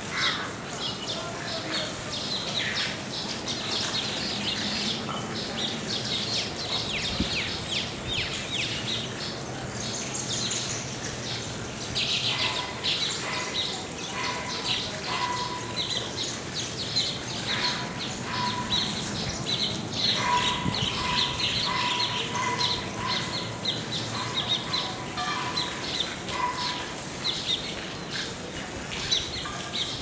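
Baya weavers chattering at a nest colony: a dense, continuous stream of fast, high chirps. Partway through, a series of short, lower repeated notes joins in and keeps on until near the end.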